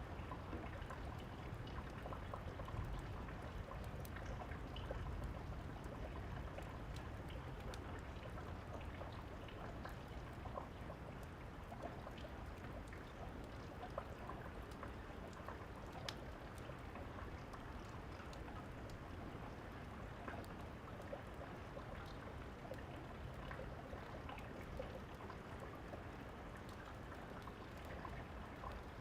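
Steady rain falling outdoors, with scattered sharp pops and clicks from a crackling wood fire and a steady low rumble underneath.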